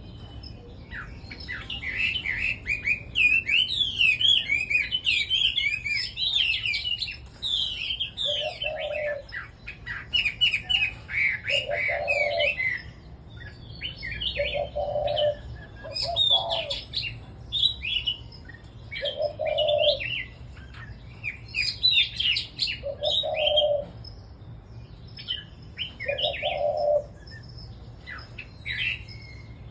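Caged red-whiskered bulbuls singing, quick warbling phrases overlapping and chattering throughout. Beneath them a separate low call repeats about every three and a half seconds, starting around nine seconds in.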